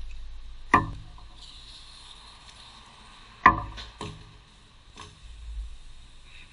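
Two sharp knocks about three seconds apart, followed by a few lighter taps, over a faint steady high-pitched tone.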